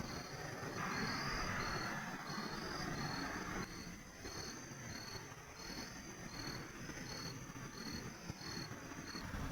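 Insects chirping: a steady high trill with a second high chirp repeating about twice a second, and a soft rushing hiss for a couple of seconds about a second in.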